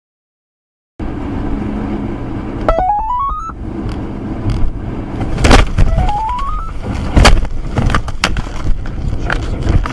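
Vehicle noise with a steady low rumble, a rising tone twice, and several sharp knocks, the loudest about five and a half and seven seconds in.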